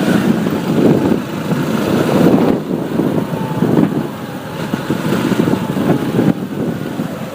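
Road traffic heard while riding a motorbike: a dense rumble of engine and road noise that swells and eases.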